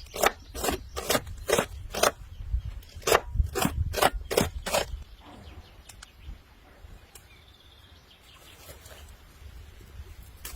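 A run of sharp, evenly spaced knocks, about two a second, that stops about five seconds in, leaving only faint background noise.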